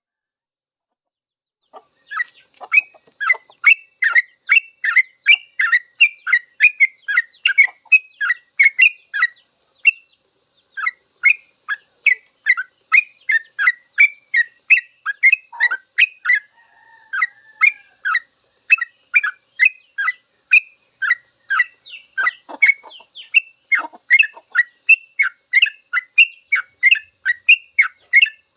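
Yellow-vented bulbul (trucuk) singing its rapid 'ropel' song: a long, fast run of short chirping notes, two to three a second. It starts about two seconds in and breaks off briefly twice.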